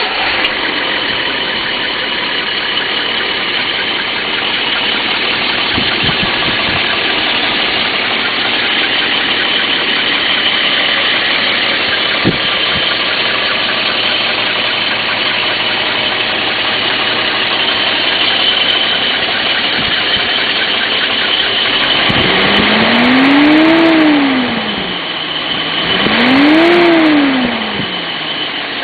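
Datsun 280Z's 2.8-litre straight-six running smoothly at idle just after start-up. Near the end it is revved twice, the pitch rising and falling over about three seconds each time.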